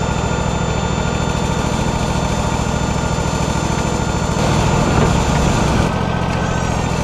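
Wood-Mizer LT40 Hydraulic sawmill engine running steadily, with a shift in its sound about four and a half seconds in and again near six seconds.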